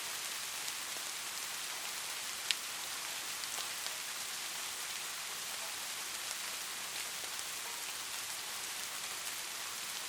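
Light rain falling steadily: an even hiss of rain with scattered ticks of single drops, and one sharper drop about two and a half seconds in.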